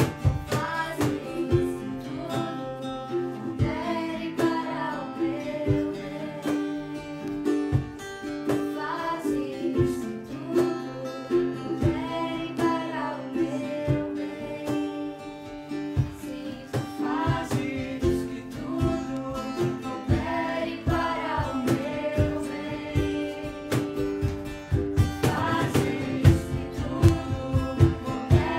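A song sung to a strummed guitar, the sung melody rising and falling over the steady chords.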